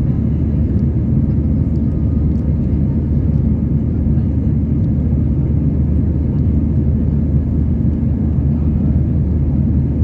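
Airbus A320 engine and airflow noise heard inside the passenger cabin during takeoff: a loud, steady, low rumble that does not change.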